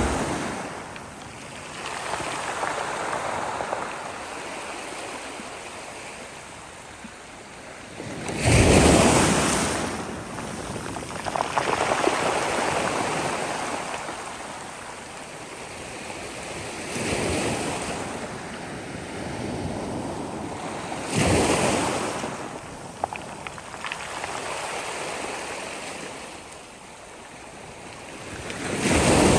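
Sea waves breaking and washing up the shore in slow, rushing surges, the strongest breaks coming about 9 seconds in, about 21 seconds in and near the end.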